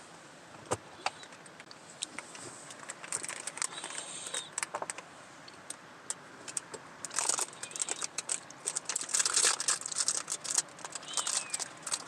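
Crinkling and rustling of snack packaging with scattered sharp clicks, sparse at first and much busier in the second half.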